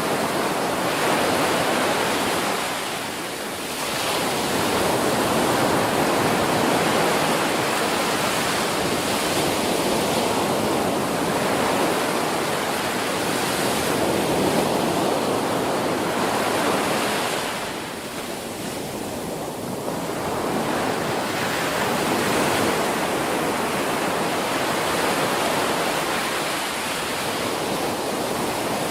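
Ocean waves breaking on a beach: a steady rushing wash of surf that eases briefly twice, about three seconds in and again a little past the middle.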